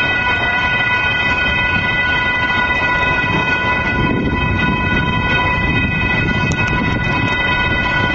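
Train running: a continuous rumble with a steady high tone and its overtones held unchanged throughout.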